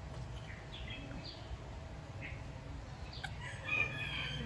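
Small birds chirping: scattered short high chirps, then a brief burst of twittering near the end, over a low steady background rumble.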